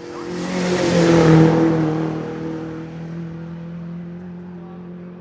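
Hill-climb race car passing at full throttle: the engine note swells quickly to its loudest about a second in, then drops slightly in pitch and fades as the car climbs away up the hill.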